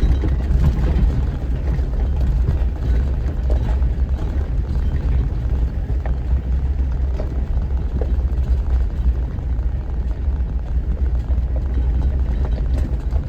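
Off-road 4x4 crawling in four-wheel-drive low, second gear: a steady low engine and drivetrain rumble with faint scattered ticks.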